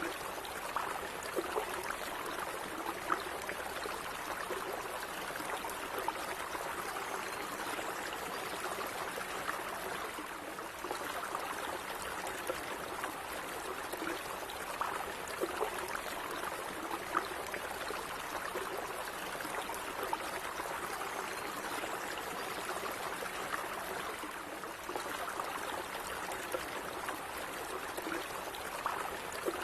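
Stream water running steadily over stones, a continuous trickling and gurgling with small splashes.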